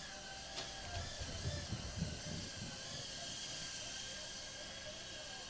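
Tiny 65 mm whoop drone's motors whining over a steady hiss, the pitch wavering slightly with throttle, with a few soft low thumps in the first couple of seconds.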